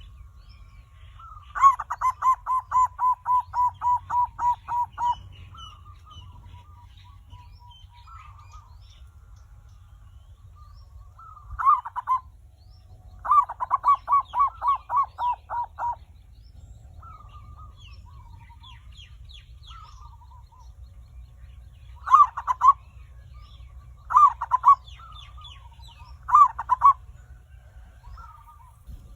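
Zebra dove (perkutut) cooing: short clipped phrases, and twice a long run of about a dozen rapid, evenly spaced coos. Faint high chirps of other small birds and a low steady hum run underneath.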